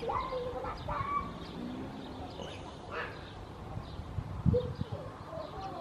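Outdoor background of birds calling, short chirps and sliding calls, with a faint murmur of distant voices. A single low thump about four and a half seconds in is the loudest sound.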